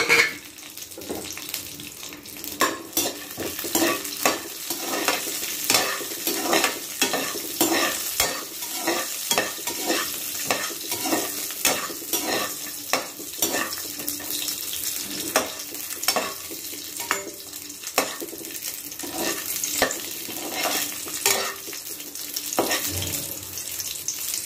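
Cashews and raisins frying in ghee in a metal kadai, a steady sizzle, with the stirring utensil scraping and knocking against the pan about once or twice a second.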